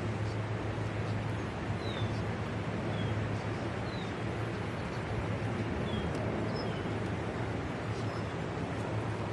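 Steady low engine hum, with short high falling bird chirps recurring about once a second.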